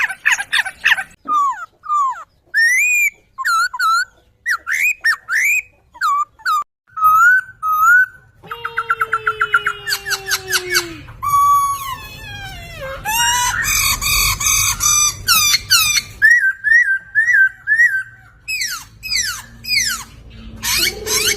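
Poksay (laughingthrush) singing a long, varied song of loud whistled phrases with rising and falling slides. About eight and a half seconds in comes a fast run of repeated notes, and near the middle a harsher, chattering stretch, before the whistled phrases resume.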